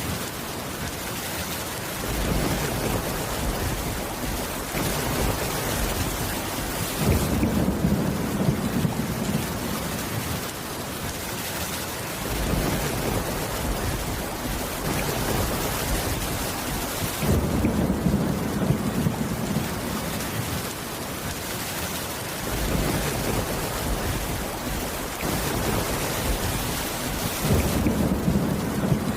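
Steady heavy rain with low rumbles of thunder that swell and fade about every five seconds.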